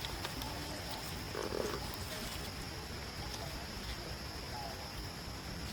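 Baby monkeys squeaking faintly now and then over steady outdoor background noise, with one short louder call about one and a half seconds in.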